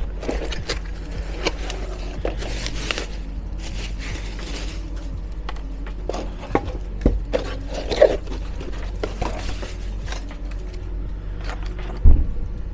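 Workshop handling noise: scattered scrapes, rattles and light knocks of parts and tools being moved about, with a sharp knock about eight seconds in and a heavier thud near the end. A steady low hum runs underneath.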